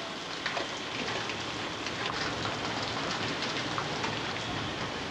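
Steady heavy hurricane rain, with many small separate drop hits.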